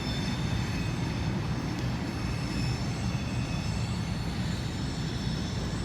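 Freight train cars rolling past on the rails, a steady low rumble with a faint, steady high-pitched wheel squeal over it.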